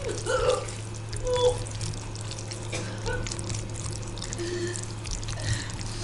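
Wet squelching and dripping as a handful of soggy rice porridge is squeezed over a bowl, with small scattered wet clicks over a steady low hum.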